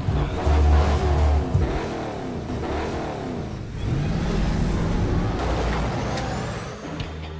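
Batmobile Tumbler engine sound effect revving hard, its pitch swinging up and down, then climbing about four seconds in and holding steady under a heavy low rumble before fading near the end.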